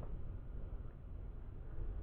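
Faint room tone: a low, steady rumble with light hiss and no distinct events.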